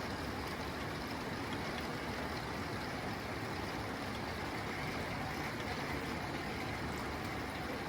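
Steady rain falling on a tin roof, an even, dense wash of noise with a low rumble underneath and no single drops or breaks standing out.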